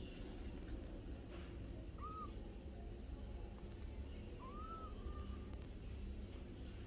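Cat mewing: two short, arched mews, the second longer, about two and a half seconds apart, over a low steady hum.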